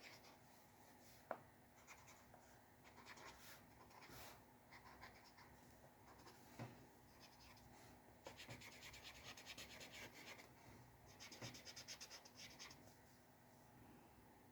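Faint scratching of a pen or pencil on paper, in short separate strokes, with two runs of quick repeated strokes in the second half. A single light tap about a second in.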